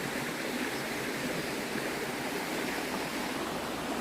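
Small stream rushing steadily over its bed: an even, unbroken hiss of running water.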